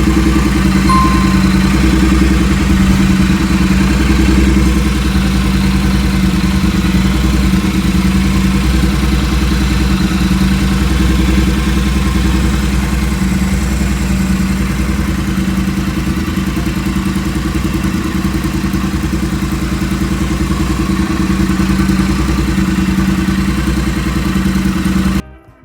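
Triumph parallel-twin motorcycle engine running steadily, ending abruptly near the end.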